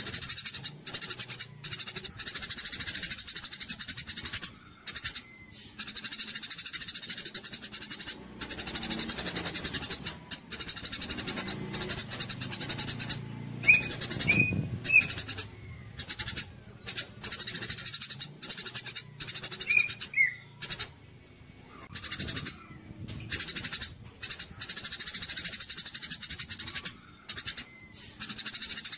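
A 'gereja cililin' songbird singing its 'kapas tembak' song: rapid high-pitched buzzing, chattering trills in long bursts broken by short pauses. A few separate short chirps come in about halfway through.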